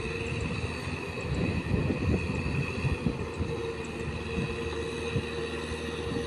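Tractor engine running steadily, with a run of louder, irregular low knocks and jolts about two to three seconds in.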